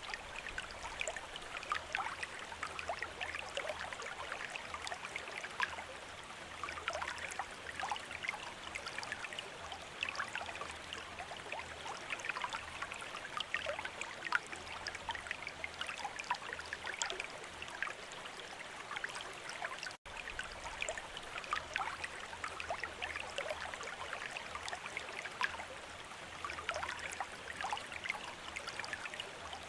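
Water trickling and splashing steadily from a bamboo fountain spout, a dense patter of small drops. It cuts out for an instant about two-thirds of the way through.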